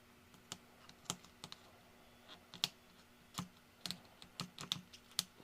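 A series of small, irregular clicks and snaps, about a dozen, as an ultrasonic knife cuts through the resin supports of a 3D-printed model.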